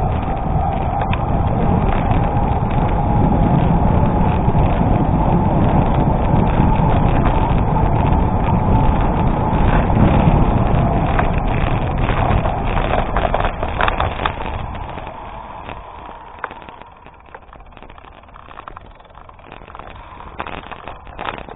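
Bicycle riding on a gravel road: wind on the microphone and tyres rumbling and crunching over gravel, with a faint steady whine. About fifteen seconds in the bike slows and the sound drops to a much quieter patter of scattered clicks.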